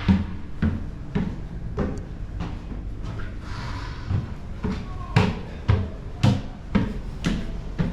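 A run of sharp knocks and thumps over a low steady hum: a few irregular ones at first, then a steady series of about two a second in the second half.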